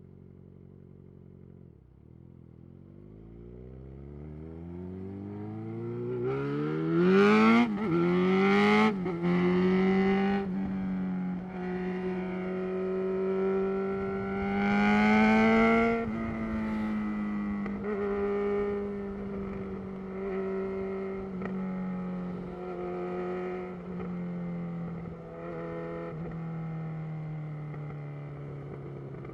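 2011 Yamaha XJ6's inline-four engine through a Black Widow full exhaust system, accelerating with a rising pitch and several quick gear shifts about seven to ten seconds in. It surges again near the middle, then settles to a steady cruise that slowly drops in pitch.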